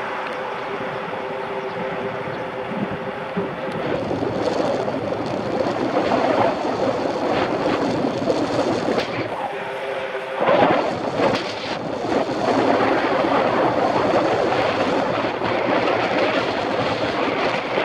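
Wind rushing over a Shimano CM-1000 action camera's microphone while riding a mountain bike, mixed with road noise and vehicle noise. A faint steady hum comes and goes, and the noise gets louder a few seconds in.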